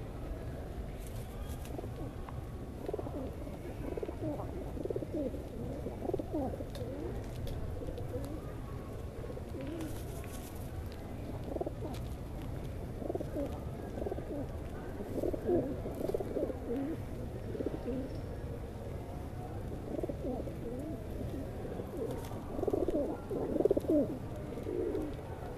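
Birds squabbling over food, giving many short, low, repeated calls, thickest and loudest near the end, over a steady low background noise.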